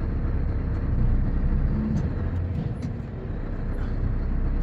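Heavy truck's diesel engine running at low speed under a full load of sand, heard from inside the cab as a steady low rumble. A few faint light clicks or scrapes sound over it.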